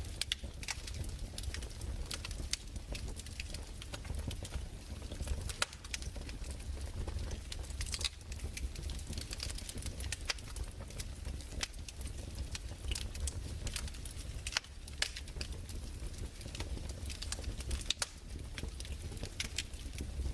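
Fireplace crackling: irregular sharp pops and snaps from burning wood over a low steady rumble.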